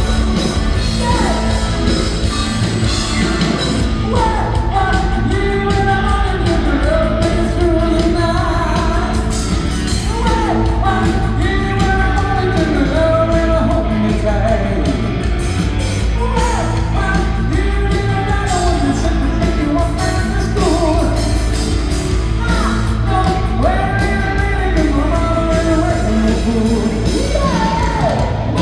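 A live rock band playing a song with a lead vocalist singing, drums and amplified instruments, heard in a large hall.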